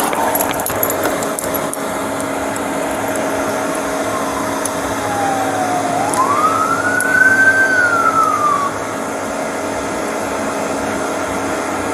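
An emergency-vehicle siren wails through one cycle over a steady mechanical hum. Its pitch sinks, then climbs sharply, holds and falls again, from about four seconds in to nearly nine. A few clicks sound near the start.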